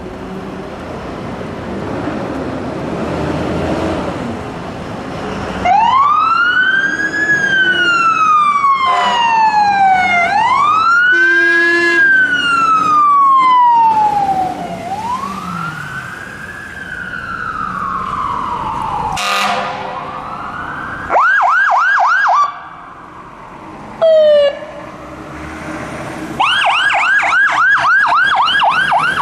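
Fire engines pulling out on an emergency run. A heavy diesel truck engine builds up first, then the sirens come on with slow rising-and-falling wails, a short steady horn blast about halfway through the first wails, and later fast yelping cycles in short bursts.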